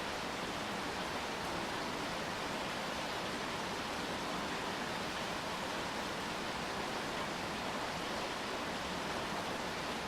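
Steady rain falling, an even hiss with no distinct drops or other events.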